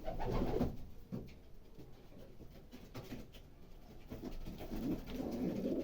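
Domestic pigeons cooing: a bout of low cooing at the start and a longer one near the end, with a few faint clicks in between.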